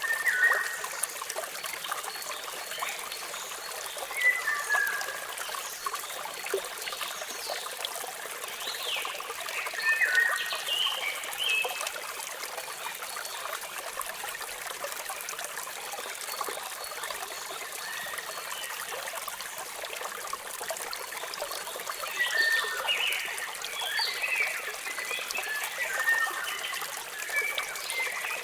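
Waterfall rushing steadily, with songbirds chirping over it in short clusters: a few calls near the start, more around a third of the way in, and the busiest run of chirps near the end.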